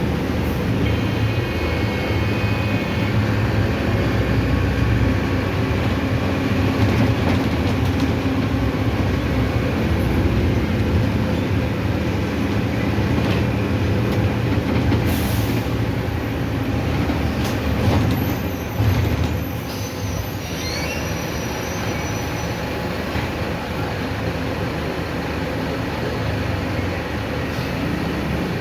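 Inside a moving city bus: the Mercedes-Benz OF-1519's diesel engine running under way with road noise, the engine sound easing off about twenty seconds in.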